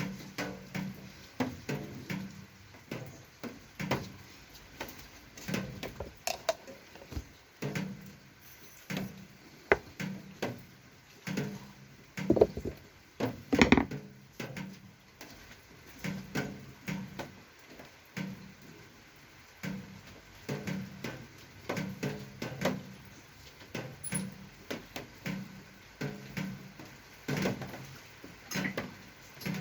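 Irregular clicks, taps and knocks of small hard parts and tools being handled, with a few louder knocks about twelve to fourteen seconds in.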